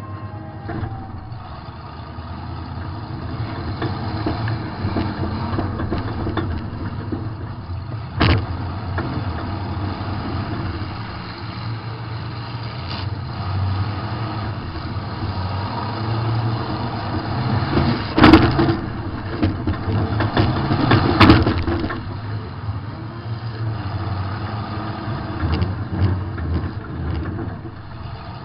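Demolition derby car's engine running and revving, heard from inside the car, broken by sharp bangs of collisions: one about a third of the way in and two louder ones a few seconds apart a little past the middle.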